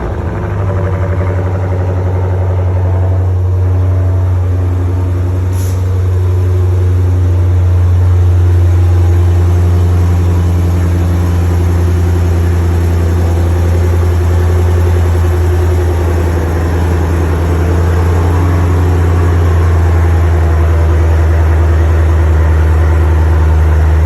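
Dodge Scat Pack's 392 HEMI V8 idling steadily just after a cold start, a loud, deep, even exhaust note.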